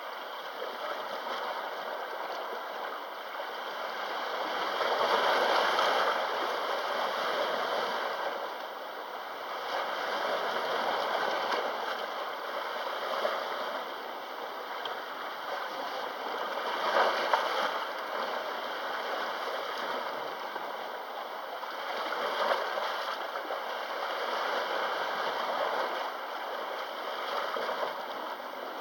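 Small sea waves washing ashore, the wash swelling and easing about every five to six seconds.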